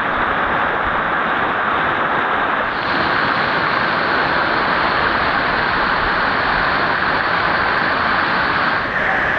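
Waterfall rushing: a loud, steady roar of falling water, changing abruptly in tone about three seconds in and again near the end.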